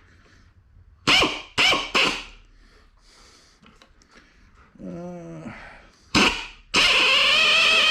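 Power drill triggered in three short bursts, each spinning up and winding down, then run steadily at speed near the end, drilling out a damaged head bolt hole in a cast-iron 396 engine block where a helicoil has pulled out.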